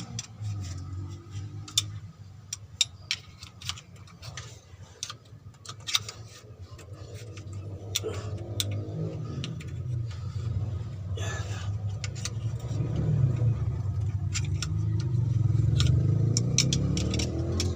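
Scattered metallic clicks and taps of hand tools on the timing-belt tensioner of a 4D56 diesel engine, as the tensioner and its spring are worked loose. Underneath, a vehicle engine runs with its pitch rising and falling a few times.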